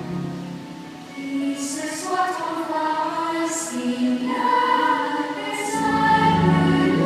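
Show soundtrack music with a choir singing held notes; it drops back about a second in, then builds, with a deep bass coming in near the end.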